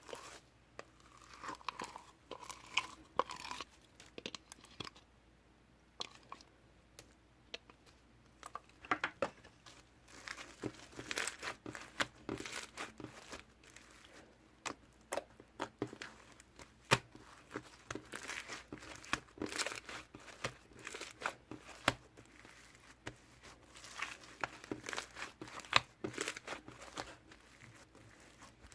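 Slime being squished, stretched and pressed by hand, giving irregular sticky crackles, pops and clicks.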